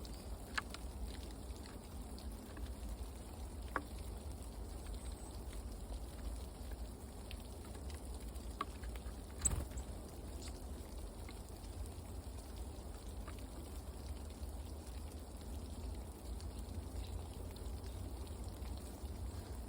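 Scattered light taps and clicks over a steady low rumble, with one sharper click about halfway through.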